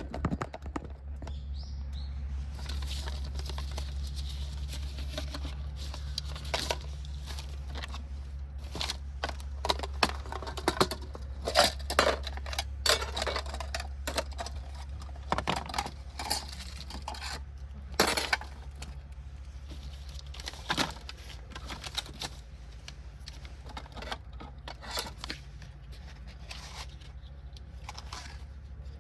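Irregular clinks and knocks of metal cookware and utensils being handled, busiest in the middle, over a steady low hum.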